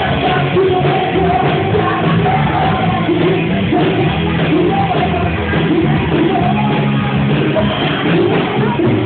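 A live band playing loudly with a singer, recorded with bad, distorted sound quality.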